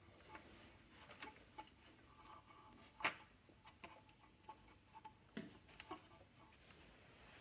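Faint, irregular clicks and taps of hand tools and metal parts being handled, with one sharper click about three seconds in.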